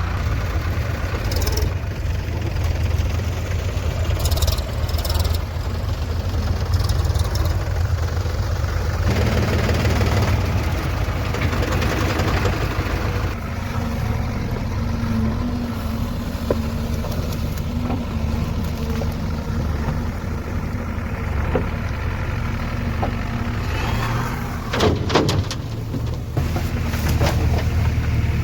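Heavy diesel engine of a JCB 3DX backhoe loader running steadily while working, its note shifting a couple of times, with a few short knocks about 25 seconds in.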